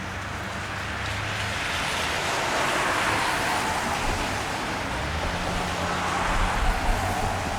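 A car driving past on a wet street: the hiss of tyres on the wet road swells to a peak about three seconds in and eases off over a low engine rumble. Near the end, a deeper engine rumble builds as another vehicle approaches.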